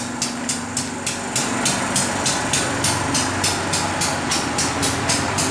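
Railway level-crossing warning bell striking steadily, about three strokes a second, over the steady hum of a passing train.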